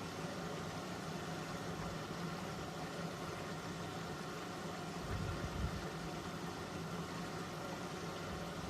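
Eurotech EW 450 washing machine, an Italian-built Antonio Merloni top-loader from 1997, running with a steady motor hum. There is a brief dull thump about five seconds in.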